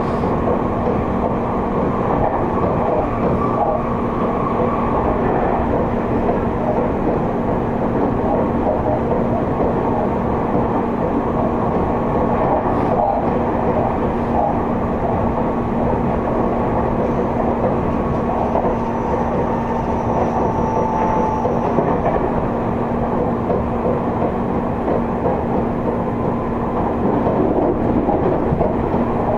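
Seibu 30000 series electric train running between stations, heard from inside a passenger car: a steady rumble of wheels on rail, with the hum of the car's air conditioning running underneath.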